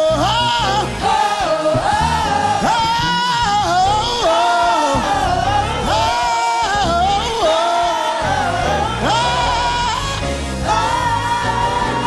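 Live gospel praise-break music: a lead singer holds and bends long wordless notes over steady instrumental accompaniment.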